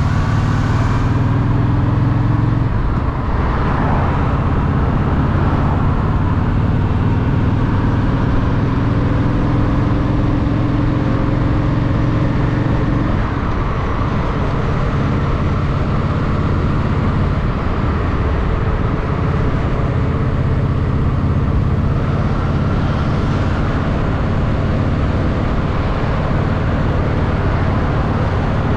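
Honda Shadow VT750's V-twin engine running under way with wind rush. Its pitch rises, then drops back about three seconds in and again around thirteen seconds in.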